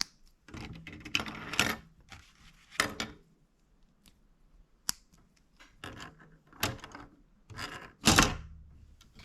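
Plastic building bricks clicking and rattling as they are handled and pressed together, in several short bursts with single sharp clicks between them, the loudest burst near the end.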